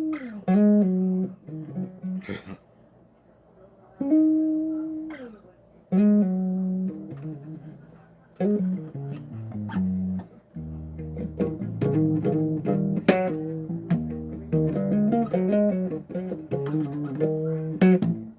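Electric bass guitar played solo: plucked notes, some held and sliding down in pitch, then a busier run of low notes from about eight seconds in.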